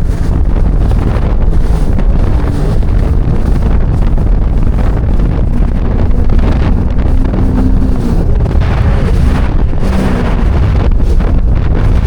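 Heavy wind buffeting the microphone over a Sea-Doo GTI 170 jet ski running at speed, its engine note showing faintly in the middle.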